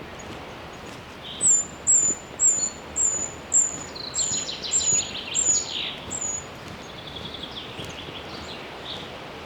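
A songbird singing a run of about nine short, high, down-slurred notes, about two a second, with a lower, quicker trill mixed in and trailing off near the end, over a steady forest background hiss.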